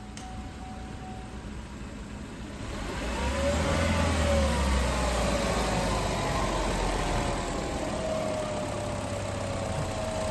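2014 Buick Encore's 1.4-litre turbocharged four-cylinder engine idling, then revved once about three seconds in, its pitch rising and then sinking slowly back toward idle.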